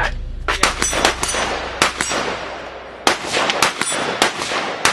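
Gunshots in a rapid, irregular string, about a dozen in under five seconds, each trailing off in a short echo, with a brief lull a little past halfway.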